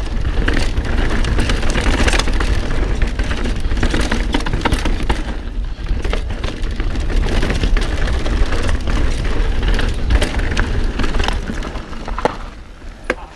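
Mountain bike descending a rough, rocky trail: wind rumbling on the action camera's microphone, tyres rolling over dirt and rock, and frequent knocks and rattles as the bike hits bumps. It eases off near the end.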